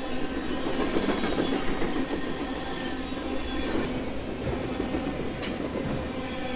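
Freight train cars rolling past on the rail, a steady rumble of wheels on track with a thin squeal of wheel flanges and occasional clicks at the rail joints.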